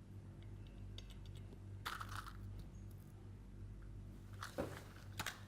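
A few light clicks and taps of crisp honeycomb pieces being handled and set on a plate, over a steady low hum.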